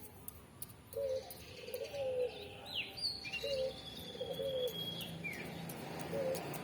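Birds calling: short low cooing notes repeated every second or so, and in the middle a higher whistled call with falling glides and a held note.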